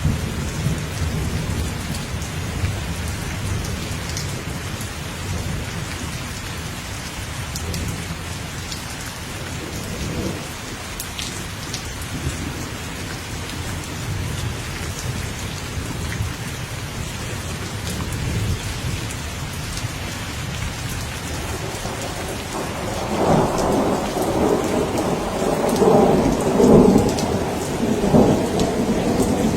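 Steady heavy rain with rumbling thunder; a louder roll of thunder builds from about three-quarters of the way in and rolls on to the end.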